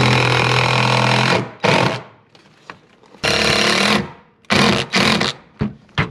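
Cordless impact driver driving screws into wood: one long hammering run of about a second and a half, then a string of shorter bursts as each screw is run in and seated.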